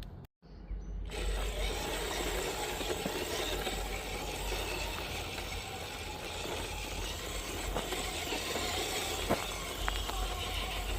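Radio-controlled rock crawler truck driving over rock: its electric motor and drivetrain run steadily, with a few sharp clicks and knocks from the tyres and chassis on the rock. A brief dropout comes just before the truck is heard.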